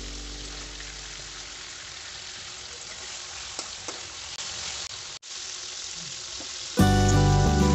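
Chicken liver and gizzard pieces sizzling as they fry in oil in a wok, with a few faint pops. The sound cuts out for an instant about five seconds in, and loud background music comes in near the end.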